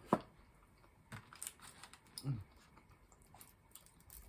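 Scattered light clicks and taps of tableware being handled during a meal, with one sharp click just at the start as the loudest.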